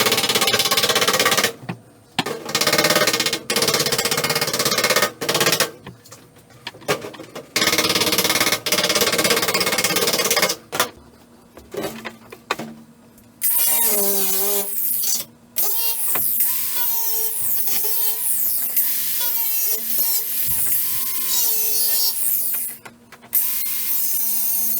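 Angle grinder grinding steel flat in short stop-start passes. Later it runs longer, with the motor's pitch dipping and recovering as it is pressed into the work.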